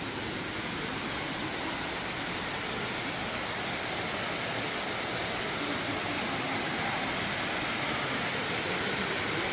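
Steady rush of falling water from a waterfall, growing slightly louder.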